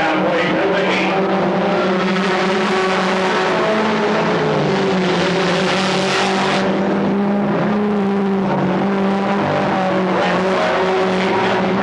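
Several stock car engines running together at racing speed, a steady drone with a rush of noise that swells and cuts off about six and a half seconds in.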